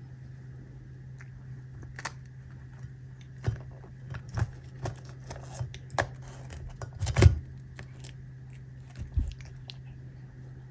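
A cat biting and crunching dried capelin, in irregular crisp crunches and clicks, the loudest about seven seconds in, over a steady low electrical hum.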